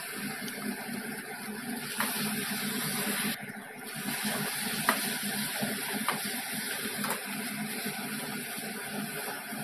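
Onion-tomato masala sizzling in oil in a metal kadai while a steel ladle stirs it, with a few sharp clicks of the ladle against the pan.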